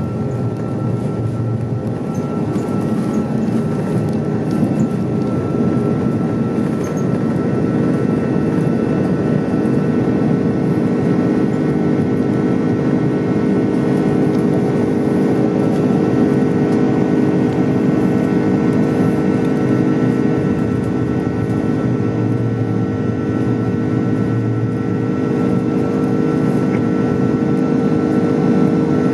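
Jet airliner engines running at takeoff power, heard inside the cabin as a loud, steady roar with a steady engine tone on top.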